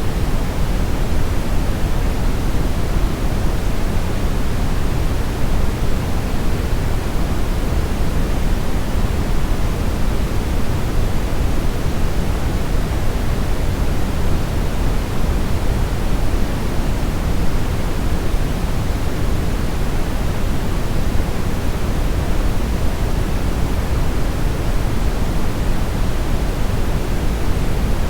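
Brown noise: a steady, deep rushing hiss, strongest in the bass and fading toward the treble, without change.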